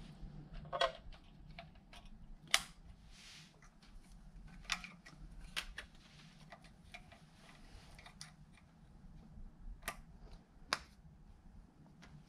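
Light, scattered clicks and clinks of hand tools and metal engine parts being handled and fitted, with a handful of sharper knocks, over a low steady hum.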